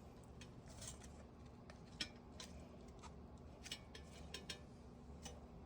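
Scattered faint clicks and light metal taps of small exhaust-fan motor parts being handled, over a low steady hum.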